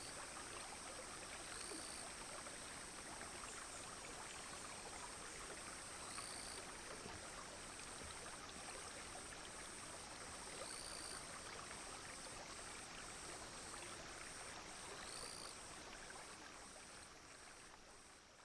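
Clear shallow stream babbling steadily, with a continuous high insect drone and a short call repeating about every four to five seconds. The sound fades out near the end.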